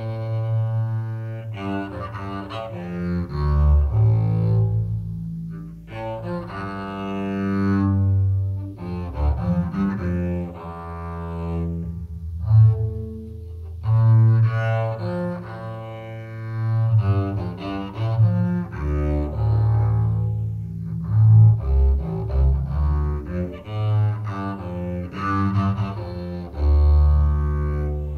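Instrumental music on bowed low strings, slow sustained notes over a strong bass line, with no singing.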